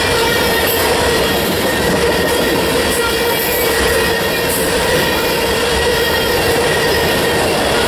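Freight train of covered hopper cars rolling past close by: a loud, steady rush of steel wheels on rail with a steady high-pitched ring over it.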